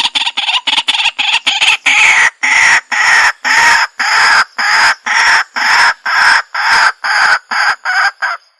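White-breasted waterhen calling a loud series of harsh croaking notes. They come quickly at first, then slow to about two drawn-out notes a second, and stop abruptly near the end.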